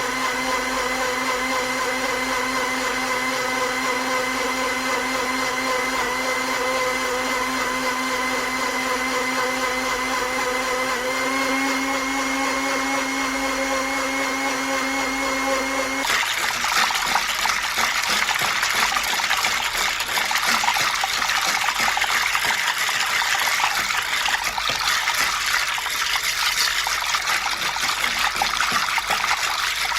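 Electric kitchen blender motor running with a steady whine, stepping up slightly in pitch about 11 seconds in and cutting off suddenly about 16 seconds in. After that comes a loud, even rush of running water.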